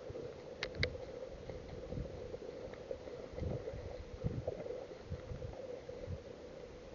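Wind buffeting the microphone in irregular low rumbles over a steady low hum, with two sharp clicks just under a second in.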